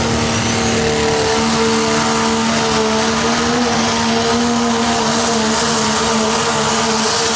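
Diesel pickup truck engine held at high revs under full load while pulling, running loud and steady with its pitch holding nearly level.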